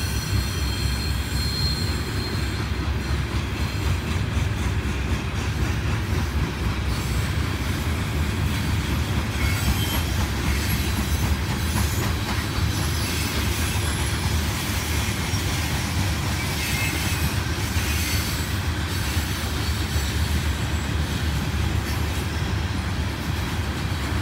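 Loaded coal hopper cars of a long freight train rolling past: a steady low rumble of wheels on rail, with high wheel squeals coming and going.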